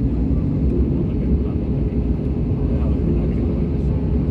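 Steady low rumble of a Lufthansa Airbus A320neo's engines, heard inside the passenger cabin.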